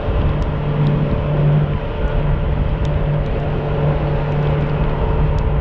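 Boat engine running steadily at speed through heavy rain and wind, its hum under a constant rushing noise, with scattered light ticks.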